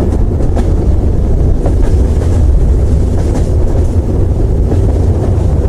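Loud, steady low rumble with a few faint clicks.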